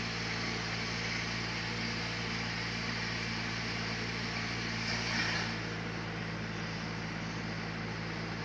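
Sawmill machinery running steadily: an engine's even hum under a constant hiss, with a brief louder rasp about five seconds in.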